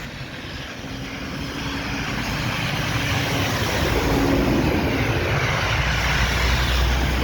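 City bus approaching, its engine and road noise growing steadily louder, with a deep engine hum strengthening near the end.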